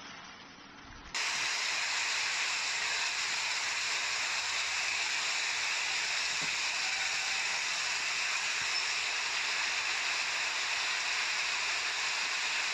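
Heavy rain pouring down onto a flooded street, a loud, steady hiss that starts suddenly about a second in; before that, fainter rain.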